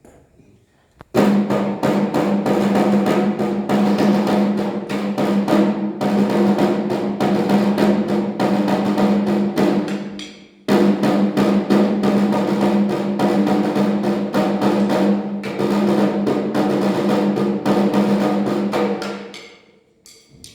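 A group of snare drummers playing a march. There are two passages of rapid, dense strokes, each about nine seconds long, with a brief sharp stop between them.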